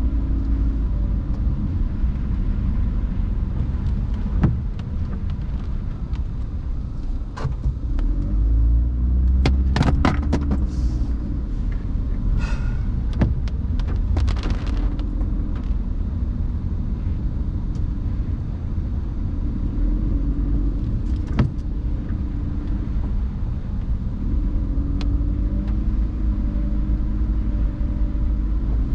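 Car driving on wet roads in the rain, heard from inside: a steady low rumble of engine and tyres, with scattered sharp clicks and a few brief hissing bursts between about 9 and 15 seconds in.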